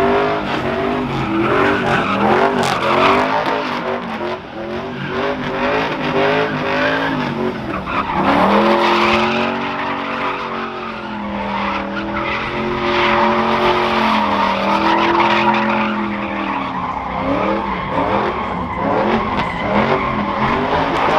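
Vehicle engine revving hard, its pitch rising and falling and then held high in steps, with tyre squeal, as in a burnout.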